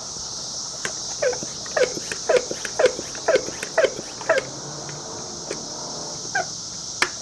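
An animal calling about eight times in quick succession, each call falling in pitch, over a steady chirring of insects. A sharp click comes near the end.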